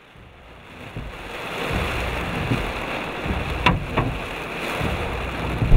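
Large hail and rain pelting down, a steady hiss that builds over the first couple of seconds, with a few sharp cracks of hailstones striking nearby.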